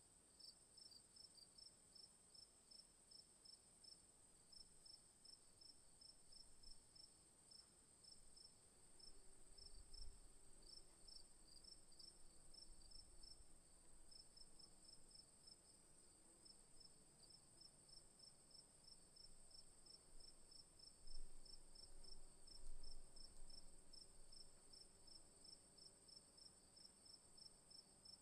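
Crickets and other night insects calling in the bush: a steady high trill under a rhythmic, evenly paced chirping, faint throughout. A soft low rumble swells briefly twice, about ten seconds in and again past twenty seconds.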